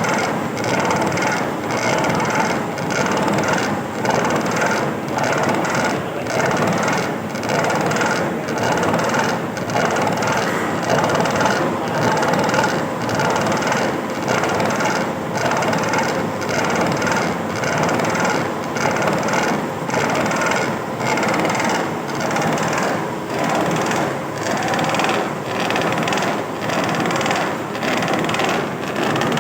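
Isofil Oerlikon Italiana thread-milling machine cutting the flight of an extruder screw: a steady metal-cutting noise that pulses regularly as the cutter's teeth bite.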